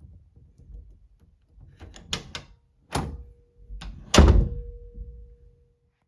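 Door handle and latch clicking several times, then knocks against the door, the loudest about four seconds in, each followed by a brief metallic ring.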